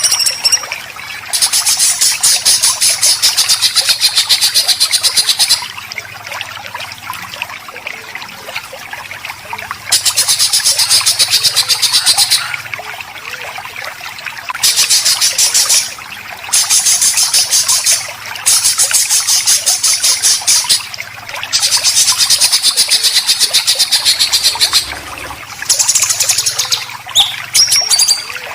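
Songbird besetan: long bursts of very fast, rough repeated notes, each lasting a few seconds, separated by short quieter gaps, with a few brief chirps near the end.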